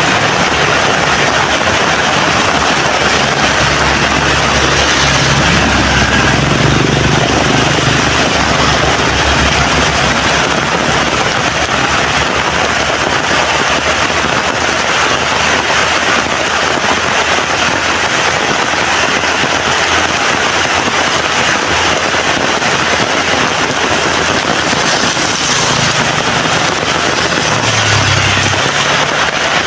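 Heavy rain falling steadily, a dense, loud hiss. A low hum rises briefly twice, around seven seconds in and near the end.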